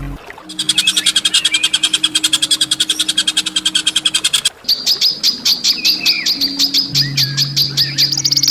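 Songbird giving harsh, sharp calls of the kind used as a tutor recording: a fast rattling series of evenly repeated high notes for about four seconds, then a rapid run of sharp, high piercing notes. A low steady hum runs underneath.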